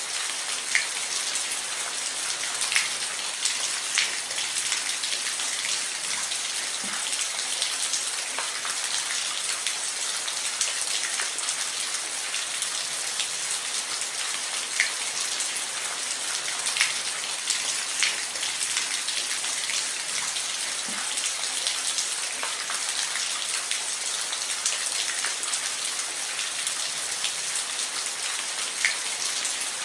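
Steady rain falling on a roof, an even hiss with scattered louder individual drop ticks.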